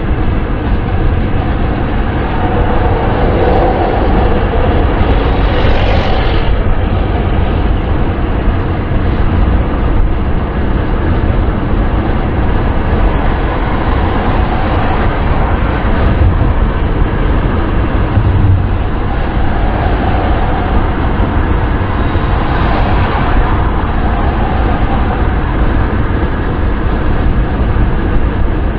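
Steady wind and road noise of a car driving at speed, a continuous rushing hiss over a deep low rumble. It swells briefly twice.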